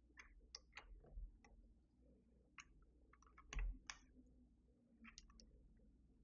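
Faint, irregular small plastic clicks and taps of keycaps being handled and fitted onto a Keychron V6 Max mechanical keyboard, with one louder knock about three and a half seconds in.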